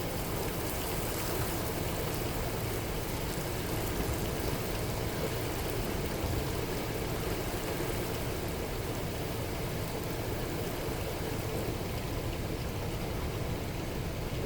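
Steady rain falling, an even hiss of drops with no rises or breaks.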